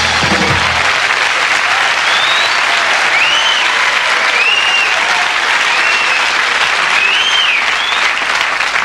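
Studio audience applauding and cheering, with a series of rising-and-falling whistles about one a second. The last notes of a rock music number die away in the first second.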